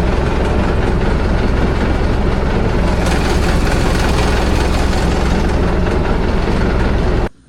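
A vehicle's engine and road noise heard from on board, loud and steady; it cuts off abruptly near the end.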